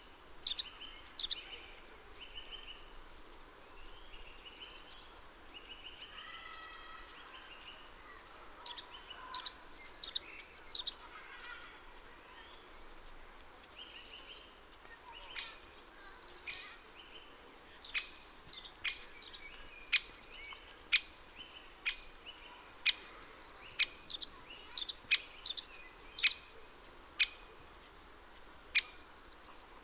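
Small garden songbirds calling: short, loud, high phrases of quick downward-sweeping notes that end in a brief held note, repeated every few seconds, with a run of sharp single call notes about once a second in the second half.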